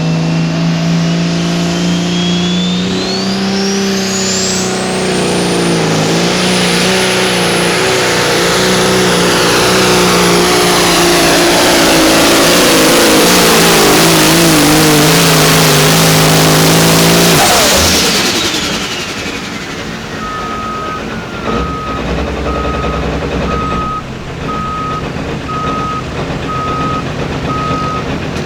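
Turbocharged diesel pulling vehicle making a full-power pull: the engine runs hard under a turbo whine that climbs to a steady high pitch, growing louder. The engine shuts off suddenly near the two-thirds mark and the turbo whine falls away, then a reversing beeper sounds in an even on-off rhythm.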